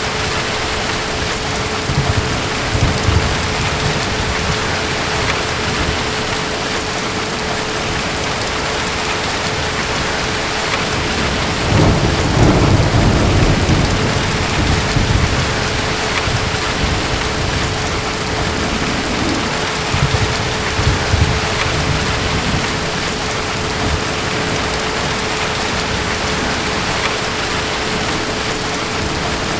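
Steady heavy rain with rolls of distant thunder: the strongest low rumble comes about twelve seconds in and lasts a couple of seconds, with lighter rumbles near the start and around twenty seconds.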